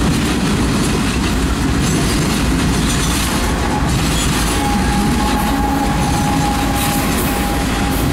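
Several BNSF diesel locomotives passing close at track speed: a loud, steady rumble of engines and wheels on rail. A steady high whine joins about halfway through.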